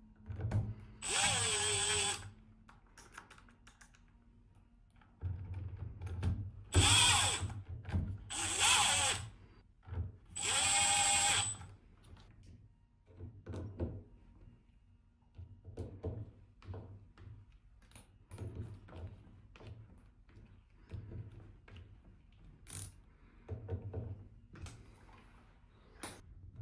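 Cordless power drill/driver run in four short bursts, the first spinning up with a rising whine, followed by light clicks and knocks of tools and parts being handled.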